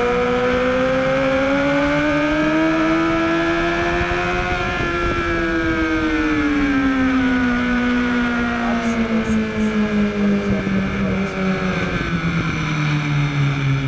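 2013 BMW HP4's inline-four engine heard onboard at speed. It revs up steadily through about the first five seconds under acceleration, then falls away as the bike slows from about 85 mph for the next corner.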